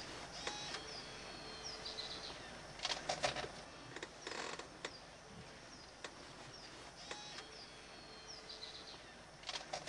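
Birds chirping over faint outdoor ambience: short high notes that fall in pitch, coming in small clusters, with scattered sharp clicks.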